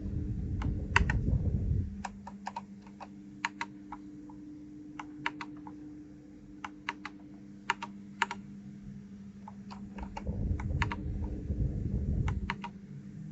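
Keys being typed on a 1STPLAYER DK5.0 keyboard newly fitted with keycaps: irregular single clicks and quick runs of two or three, over a faint steady hum. A low rumble comes in near the start and again about ten seconds in.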